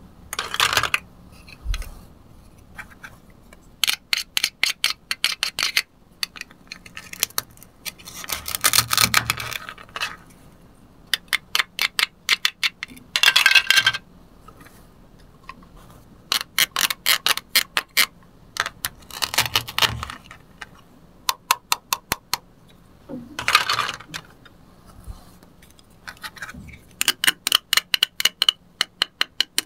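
Plastic toy play-food set being handled: runs of rapid crackling clicks as the hook-and-loop halves of the cut pieces are pulled apart and pressed together, with short rustling scrapes between them.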